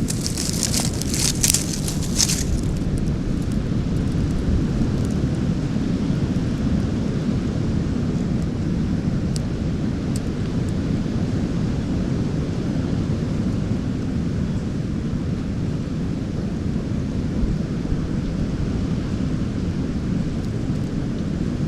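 Strong wind buffeting the microphone: a steady low rumble, with a brief spell of crackling rustle near the start.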